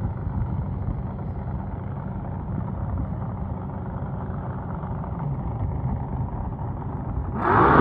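An engine idling with a steady low rumble. Near the end a louder ringing, music-like sound cuts in over it.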